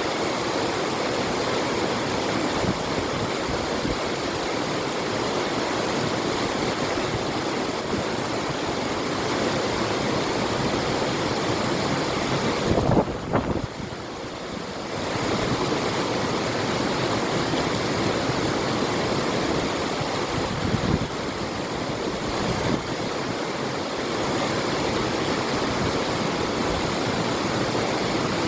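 A river flowing, a steady rush of water with wind. About halfway through there is a brief louder splash or gust, then the sound drops away for a second or two before it returns.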